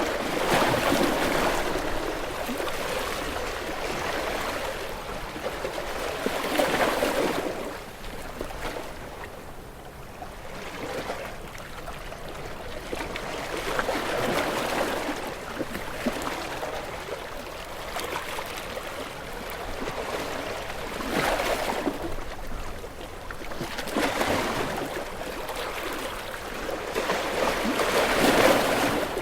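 Sea waves washing against shore rocks, the rushing noise swelling and ebbing every few seconds, with the biggest surges near the start and near the end.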